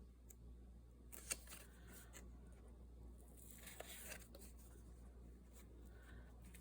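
Near silence with faint paper handling: soft rustles and light clicks as paper pieces are moved and pressed down, the sharpest click about a second in.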